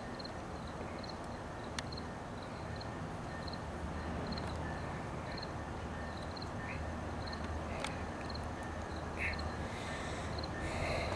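Metrolink F125 locomotive bell ringing steadily about twice a second over the low, steady rumble of the idling diesel locomotive. A few short, sharp calls stand out near the middle and the end.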